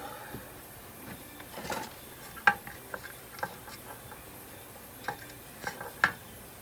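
Irregular light metallic clinks and taps of small tools being handled on a jeweler's bench, with the sharpest knocks about two and a half seconds in and near the end.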